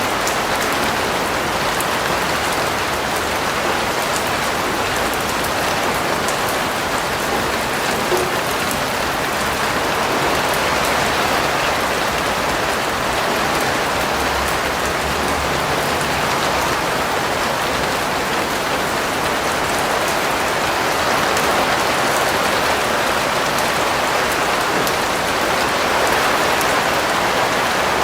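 Steady, even rain falling on a surface, with fine drop ticks.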